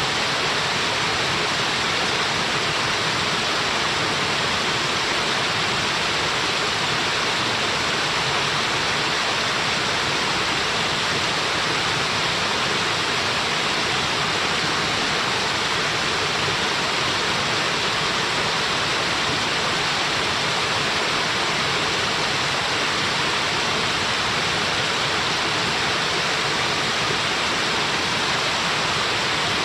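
Waterfall: a steady, even rush of falling water, with no breaks or changes in level.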